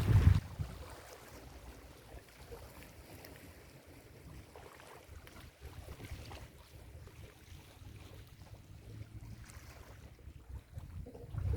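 Ocean surf washing on a beach, with wind rumbling on the microphone. The rumble is loudest in the first half-second, then eases to a quieter steady wash.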